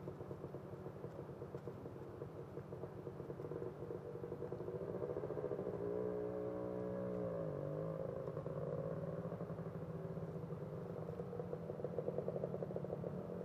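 Three-wheeler ATV engine running at low revs, steady for a few seconds, then its pitch rises a little and drops about seven seconds in before it settles again.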